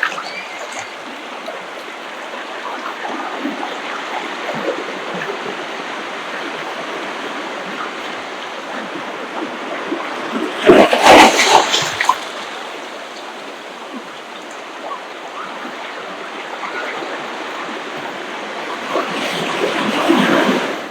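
Ocean surf washing on a beach, a steady rushing of water, with a louder surge about halfway through and another building near the end.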